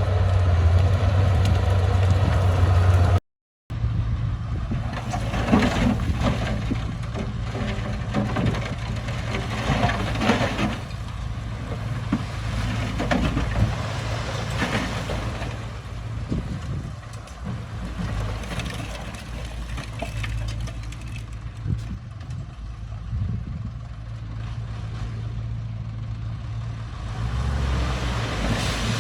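Diesel engine of heavy earthmoving machinery running steadily, with scattered clanks and crunches of soil being worked. The sound cuts out completely for a moment about three seconds in, then resumes with a slightly different engine note.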